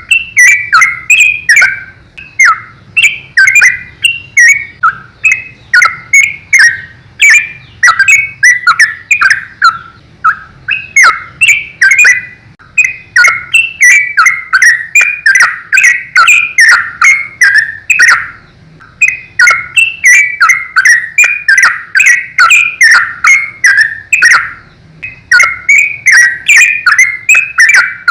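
Yellow-vented bulbul (trucukan) singing loudly: runs of short, quick notes, about two to three a second, broken by a few brief pauses.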